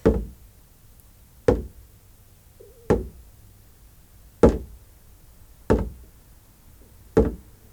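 Slow, steady hand-drum beat: six single deep strokes about one every second and a half, each with a short ringing tail, keeping time for a guided meditation journey.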